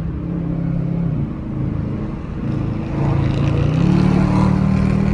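Car engine accelerating: the engine note drops about a second in, then climbs again and grows louder after about three seconds, with tyre hiss from the wet road underneath.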